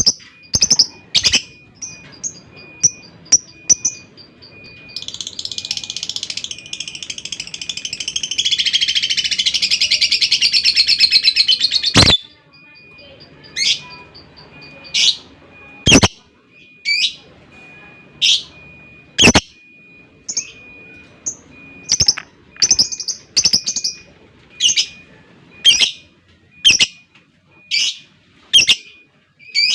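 Lovebird calling with sharp, shrill chirps spaced about a second apart. From about five seconds in it breaks into a long, rapid chattering trill, the 'ngekek', which grows louder and cuts off suddenly at about twelve seconds. The chirps then resume.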